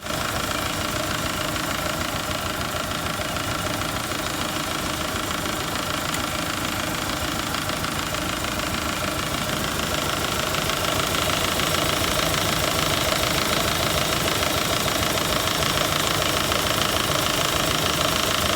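Car engine running steadily with a rapid, even clatter, getting somewhat louder about halfway through.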